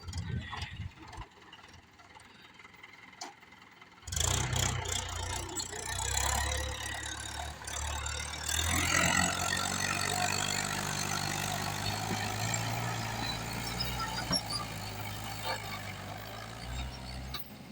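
Mahindra Bhoomiputra tractor's diesel engine running under a full load. It comes in abruptly about four seconds in, after a few faint clicks, and its pitch shifts up a couple of times as it works.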